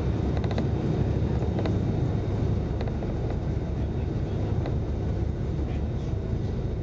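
Steady low rumble of a fast-moving passenger train, heard from inside the carriage, with a few faint clicks now and then.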